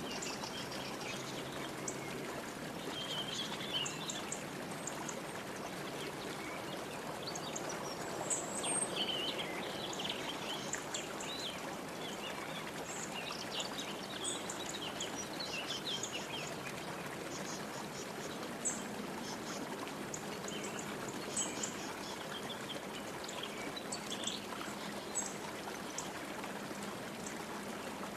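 Running water from a stream, with many small birds chirping and trilling in short high calls over it.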